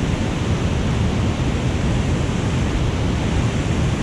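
Steady, loud rush of a waterfall and fast-flowing stream water, with no distinct events.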